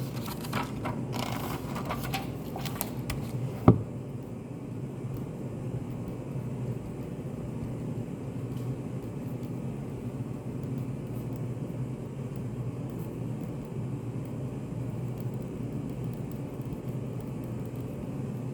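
Study-café room tone: a steady low hum, with small clicks and rustles in the first few seconds and one sharp knock just under four seconds in.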